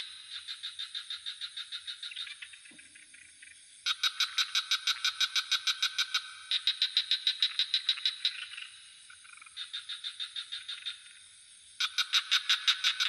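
Frogs calling in rapid pulsed trills, about six pulses a second, in bouts of two to three seconds that follow one another at different loudness, as from several frogs. Under them runs a steady, very high-pitched drone of insects.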